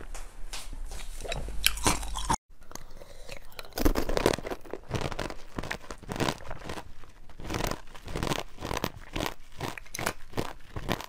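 Close-miked jelly eating: wet chewing and crunching made of many short, irregular clicks and crackles. The sound drops out completely for a moment about two seconds in, then the chewing goes on.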